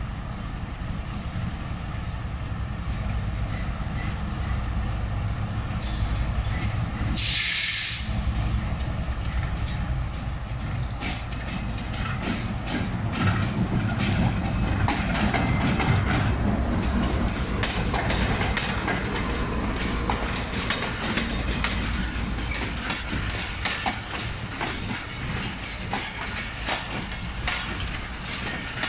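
GEU-40 diesel-electric locomotive rumbling as it pulls a passenger train out of the station, then its coaches rolling by with quick, irregular clicks of wheels over rail joints. A brief sharp hiss about seven seconds in.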